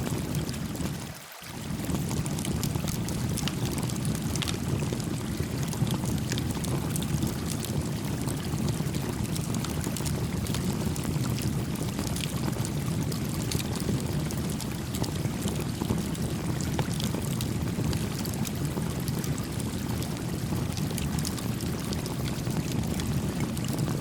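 Steady rush of a shallow stream flowing, with a small wood campfire crackling in light, scattered ticks over it. The low rush dips out briefly about a second in, then carries on evenly.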